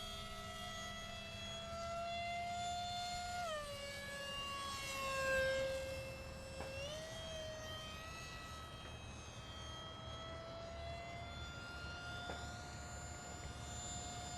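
Radio-control model airplane whining in flight, a steady pitched tone that drops about three and a half seconds in, comes back up near seven seconds, then climbs slowly again.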